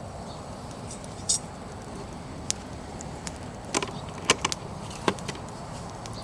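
Firewood fire crackling: scattered sharp pops and snaps over a steady low hiss, the loudest snap a little past the middle.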